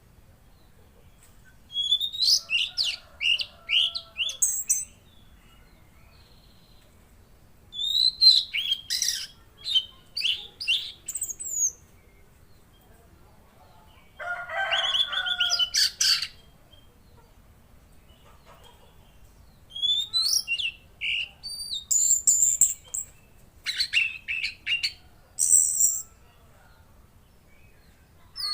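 Tledekan laut songbird singing in bursts of quick, sharp whistled notes, many falling in pitch. It sings four phrases of two to six seconds each, with pauses of a few seconds between them; the third phrase is shorter and lower.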